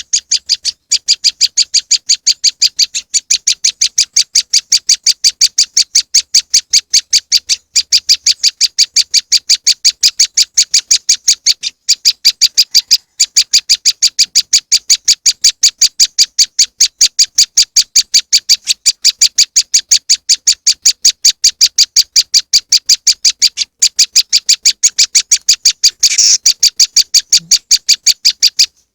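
Prenjak lumut (a small Indonesian prinia) calling, played as a bird-trapping lure: a fast, even string of sharp, high chips, several a second, broken by a brief pause near the middle and one louder sweeping note near the end.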